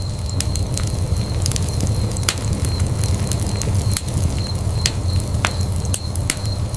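Fire burning in a fireplace: a steady low rumble of flames with frequent, irregular sharp crackles and pops, several a second.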